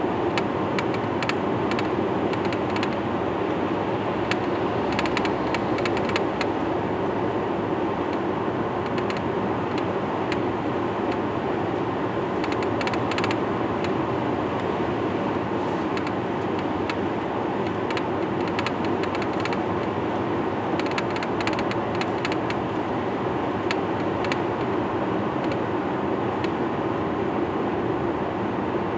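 Steady running noise of a vehicle under way, with groups of faint clicks now and then.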